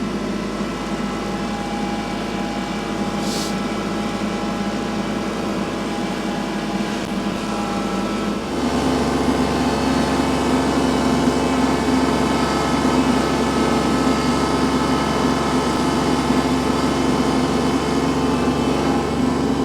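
Kubota L3301 tractor's three-cylinder diesel engine running in low range. About eight and a half seconds in, its note drops and grows louder as it takes on load dragging snow with the rear blade.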